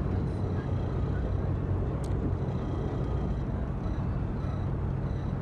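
Yakatabune pleasure boat's engine running steadily under way, a low hum, with a single sharp click about two seconds in.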